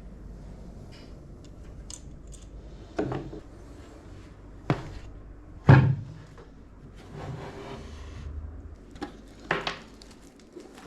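Sharp knocks and clunks of PC parts being handled and set against the case, the loudest a little over halfway through, with a stretch of rubbing or rustling between them.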